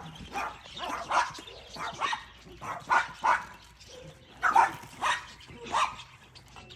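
An animal giving a run of short, separate calls, about a dozen, irregularly spaced.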